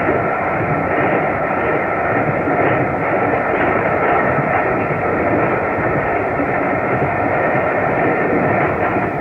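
A train running at speed: a steady rumble and roar with faint steady tones above it, ending in an abrupt cut near the end.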